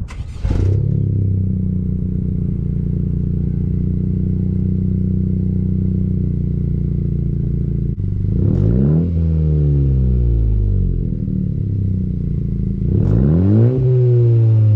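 2017 Honda Civic Si's 1.5-litre turbocharged four-cylinder, breathing through a MAPerformance race catback (essentially a straight pipe) and front pipe, starts about half a second in and idles steadily. It is then revved twice, each rev climbing quickly and falling back slowly to idle.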